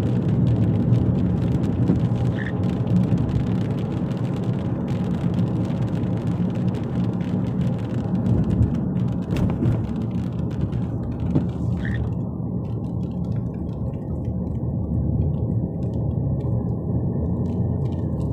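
Steady low rumble inside a car driving through heavy rain, with the noise of rain on the car.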